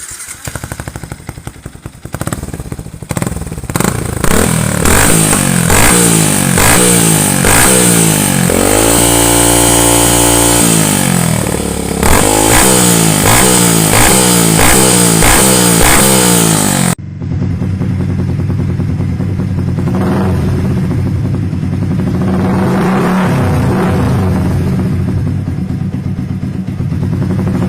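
Yamaha Vixion's single-cylinder engine through an aftermarket racing exhaust, revved again and again in quick blips, held high for about a second and a half near the middle, then blipped again. After an abrupt change it settles to lower, steadier running with a few rises.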